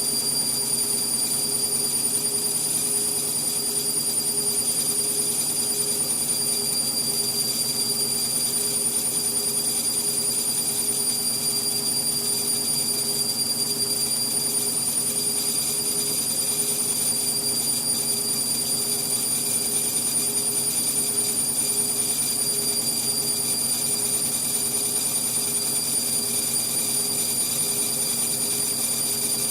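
Indesit MTWC71252WUK washing machine spinning at a steady speed, its motor and drum giving a constant whine with several steady high tones. It is a reduced spin, short of a full 1200 rpm spin, after the balance function gave up trying to even out the load.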